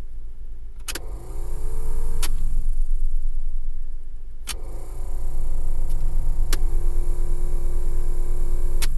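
Suzuki Carry DA63T's air-conditioning blower fan motor switched on and off with sharp clicks: it spins up with a rising whine, is clicked off after about a second and a half, then is switched on again, whining steadily with another click partway through, until a click near the end. This is the blower that has been making an abnormal noise and failing to start. A steady low hum lies underneath.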